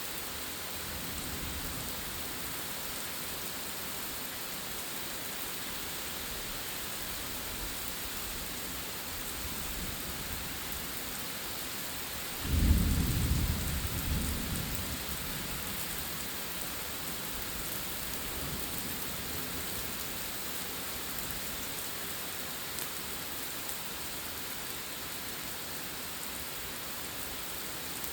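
Steady rain hissing down throughout a thunderstorm. A faint low rumble of thunder comes near the start, and about halfway through a sudden, loud clap of thunder rumbles and fades over about three seconds.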